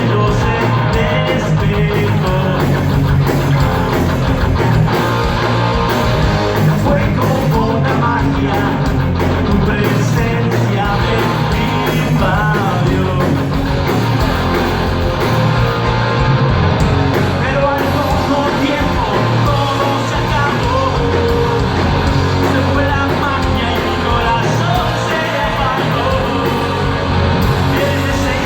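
Rock band playing live with electric guitars, bass and drums, and a singer's vocals over the top.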